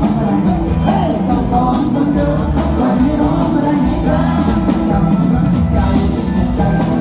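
Live luk thung / mor lam band music with a steady drum-kit beat and regular cymbal strokes.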